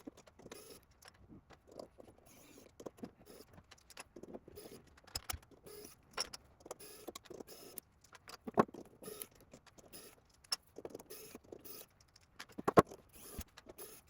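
Scattered small clicks, taps and rattles of hand tools and 3D-printed plastic corner pieces being unscrewed and lifted off a Voron 0.2 printer's tophat, with a couple of sharper knocks, the loudest near the end.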